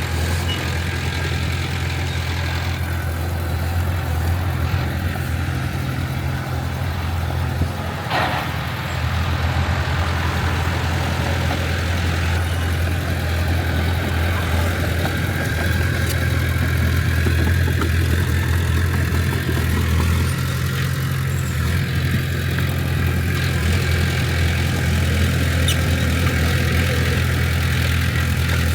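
Diesel engine of heavy earthmoving machinery running steadily with a deep, even hum, and a brief sharp higher-pitched sound about eight seconds in.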